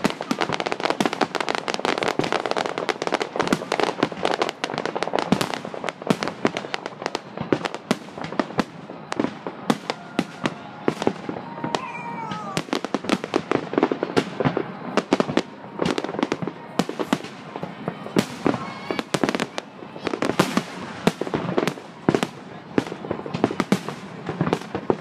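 Fireworks display: a rapid, unbroken run of bangs and crackling from bursting aerial shells and launching comets.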